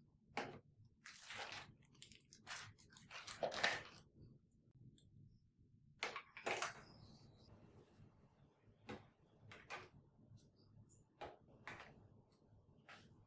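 Faint household handling noises: short rustles, scrapes and light clacks of objects being moved and set down, at irregular intervals, the loudest near the start and about six seconds in.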